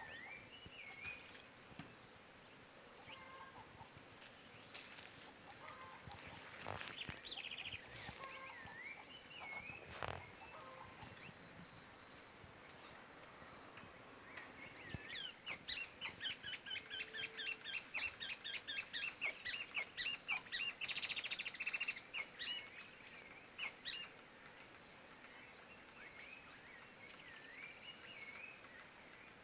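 Wild birds singing: short whistled phrases, then from about halfway a fast run of repeated notes lasting several seconds, which is the loudest part. A steady high insect drone runs underneath.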